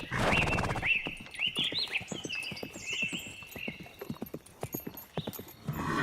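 Horse blowing a short buzzing snort or whinny at the start, then its hooves clopping irregularly on hard ground.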